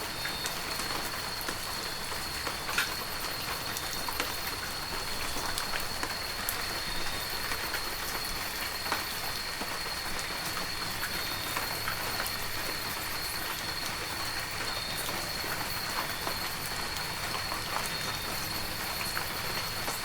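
Heavy rain falling steadily, with scattered sharp drops striking close by. A steady high, thin tone sounds alongside it.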